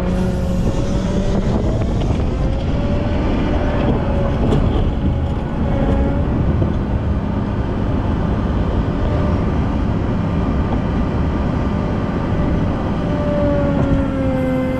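Volvo L90F wheel loader running under load, a steady diesel engine with whining tones that slide in pitch and fall near the end.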